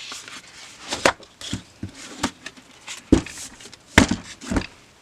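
A series of irregular sharp knocks and taps, about seven in five seconds, some louder than others, with faint rustling between them.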